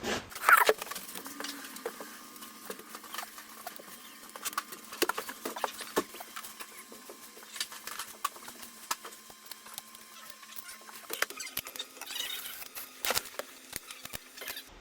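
Irregular clicks, taps and scraping from hands handling small parts and tools, with the loudest knock just after the start.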